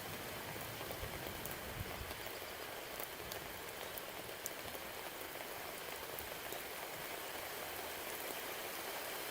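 Steady rain falling, with scattered sharp ticks of individual drops. A faint low rumble fades out about two seconds in.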